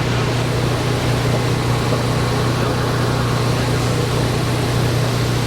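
Steady mechanical drone: a constant low hum over an even rushing noise, unchanging throughout.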